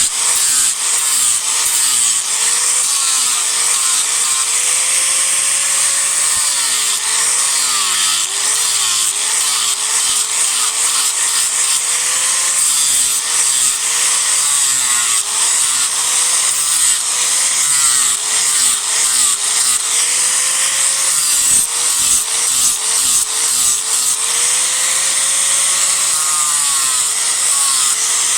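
Disc grinder cutting and rough-shaping a block of cedar wood in one continuous pass, a loud grinding hiss with the motor's pitch wavering up and down as the disc bites into the wood.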